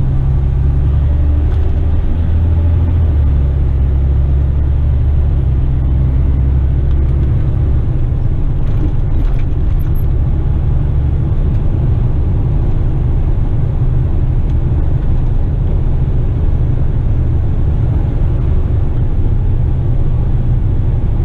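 Western Star tipper truck driving, its diesel engine and road noise making a steady low drone. The deepest part of the drone eases off about seven seconds in.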